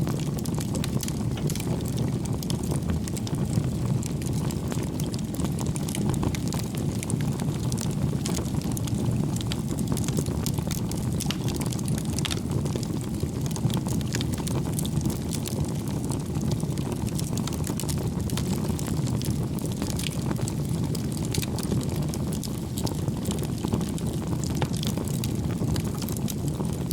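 Wood fire burning: a steady low rumble of flames with frequent small, irregular crackles and pops from the burning logs.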